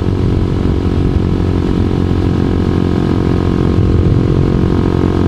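2012 Honda CBR250R's single-cylinder engine running at a steady pace while being ridden, its tone holding even without revving up or down.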